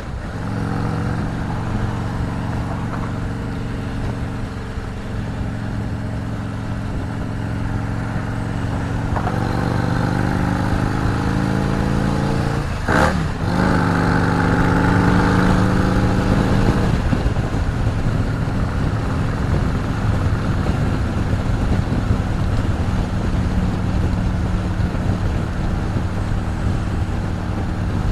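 Harley-Davidson Road Glide's V-twin engine running at road speed, with wind rushing past. About halfway through, the engine note climbs, drops sharply and picks up again, then settles into a steady drone.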